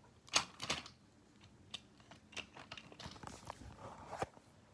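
Light plastic clicks and taps from TrackMaster toy engines and track pieces being handled, with two sharper knocks about half a second in and another near the end.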